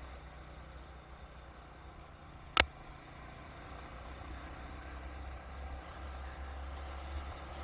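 A vehicle running with a steady low rumble that grows a little louder in the second half. A single sharp knock about two and a half seconds in is the loudest sound.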